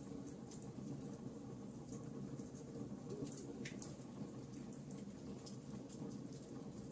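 Wood fire in a fireplace crackling, with many small irregular pops and snaps over a steady low background.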